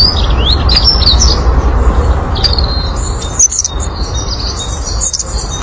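Several small birds chirping and twittering in quick, short, sliding calls, over a loud steady low rumble.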